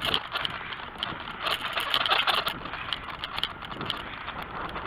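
BMX bicycle being ridden, with a run of small irregular clicks and rattles over road and wind noise, busiest about two seconds in.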